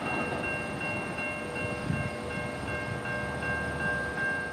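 VIA Rail passenger train passing at speed: a steady rumble of wheels on rail, with several steady high tones ringing over it.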